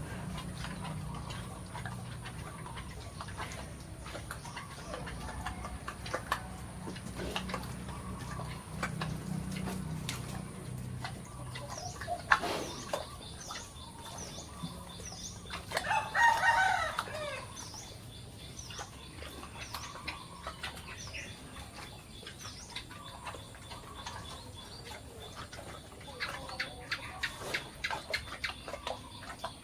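Chickens: a rooster crows once, about 16 seconds in, amid clucking and a run of small, quick high chirps. A single sharp knock comes shortly before the crow.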